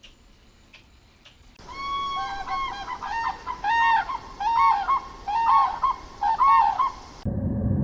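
Goose honking: a quick series of about a dozen short, arched honks that starts about one and a half seconds in. Near the end it cuts off abruptly and a loud, low rumbling noise takes over.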